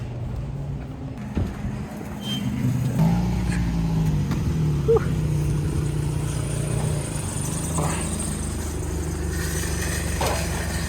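A car engine and road noise while driving. The engine note rises as the car accelerates about three seconds in, then runs steadily.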